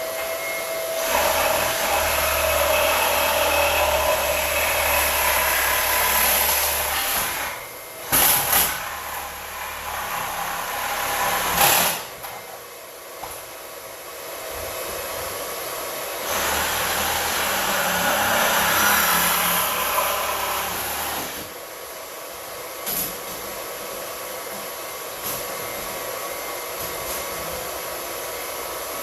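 Steady rushing noise of a water heater tank being pumped down. It gets louder in two stretches of about six and five seconds, with a few short knocks in between.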